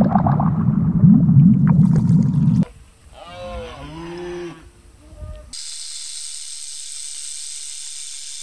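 A loud low rumble, then cattle mooing in drawn-out calls that rise and fall in pitch, then a snake's steady high hiss that starts suddenly.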